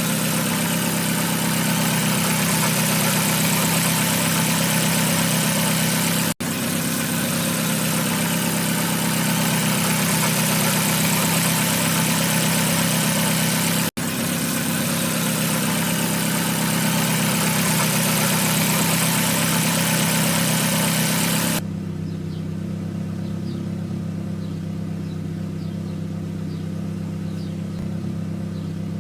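Great Wall Florid engine idling steadily, its injectors freshly cleaned to cure a misfire and rough idle. A loud hiss over the engine, broken twice by a brief dropout, stops suddenly about 22 seconds in, leaving the even idle on its own.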